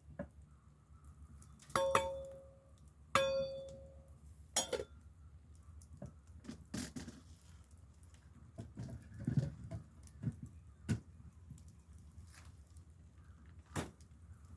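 Metal clanging: two ringing strikes about a second and a half apart, each dying away over about a second, then a third shorter strike and scattered lighter clinks and knocks.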